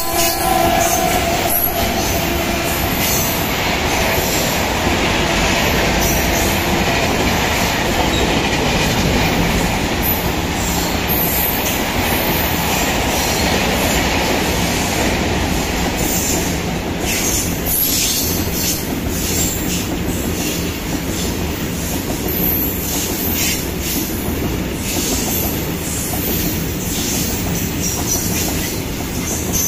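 A long freight train of tank wagons rolling past at close range: a steady, loud rumble of wheels and wagons on the rails, running evenly throughout.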